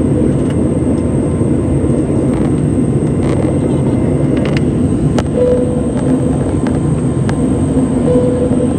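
Steady roar of an airliner cabin in flight: engine and airflow noise, with a few faint clicks and a brief tone heard twice.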